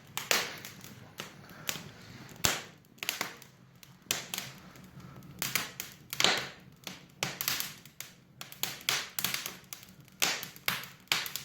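Wood fire crackling in an open fireplace: damp firewood burning with irregular sharp pops and snaps, several close together at times.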